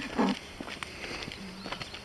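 Running footsteps, a quick irregular patter of steps. A short loud vocal sound comes just after the start, and a brief low hum near the end.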